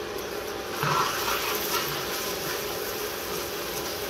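Onion and tomato masala sizzling steadily in a hot pan as it is stirred with a metal spoon, the sizzle swelling briefly about a second in.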